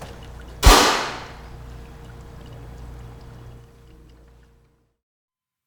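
A single loud, sharp impact about a second in, with a ringing tail, followed by a low rumble that fades and then cuts off suddenly.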